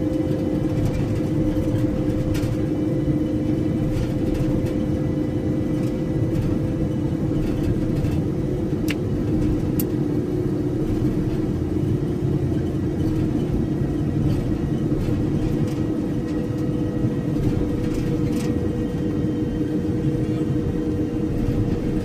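A moving vehicle heard from inside the cabin: steady road and engine rumble with an even low drone.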